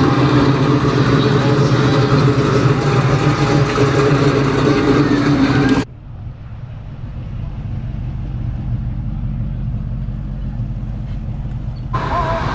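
A car engine running close by, loud and steady. About six seconds in the sound cuts off abruptly, leaving only a low rumble.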